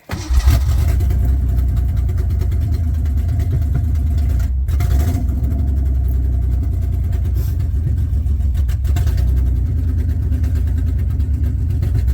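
Ford 2.9 L V6 engine of a 1987 Bronco II catching almost at once on a cold start, flaring up briefly, then running at a steady fast idle.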